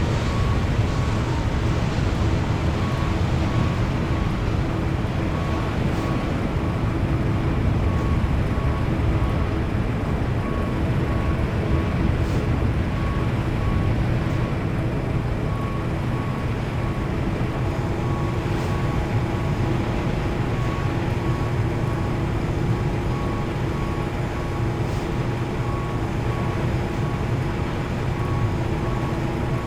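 Cabin noise of an Airbus A330-900neo taxiing: a steady low rumble from its Rolls-Royce Trent 7000 engines and the rolling aircraft, with a faint steady hum and a faint higher tone that pulses on and off.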